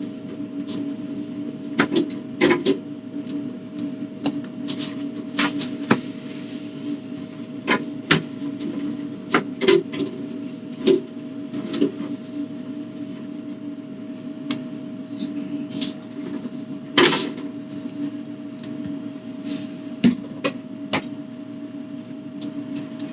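Items and containers being handled while a refrigerator is emptied and reorganized: scattered clacks and knocks of bottles, jars and plastic containers set down and moved, the loudest about two-thirds of the way through, over a steady low hum.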